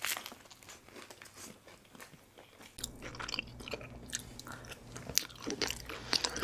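Close-up eating sounds: crisp crunching bites and chewing, many short sharp crackles. A faint low steady hum comes in about three seconds in.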